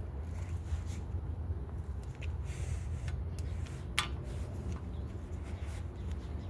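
Faint handling noises of brake work, light rubs and ticks of metal parts and tools, with one sharp metallic click about four seconds in, over a steady low rumble.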